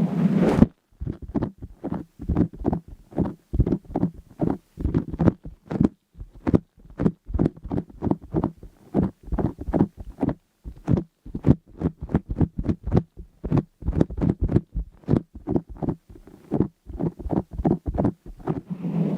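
Rapid, irregular soft low thuds, several a second with brief silences between them, after a short rush of noise that stops about half a second in.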